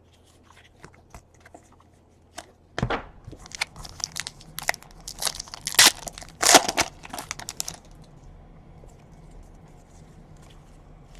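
A trading-card pack's foil wrapper being torn open and crinkled: a run of sharp crackling rips that starts about three seconds in and stops about eight seconds in.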